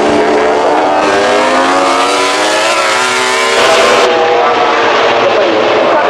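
MotoGP racing motorcycle engines running at high revs, the pitch rising over a couple of seconds, then changing abruptly about three and a half seconds in.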